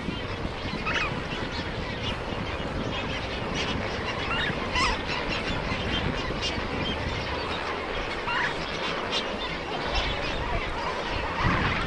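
Birds calling: a few separate short honking calls over a steady background of noise.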